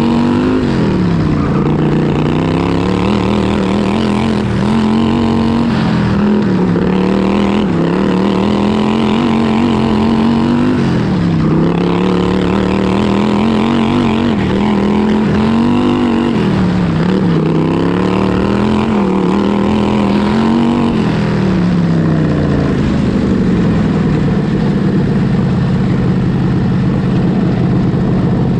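Racing lawn tractor's modified vertical-shaft V-twin engine heard onboard, running hard at high revs with the engine speed dropping briefly and climbing back several times. About three-quarters of the way through the revs fall away and it runs on steadily at a lower speed.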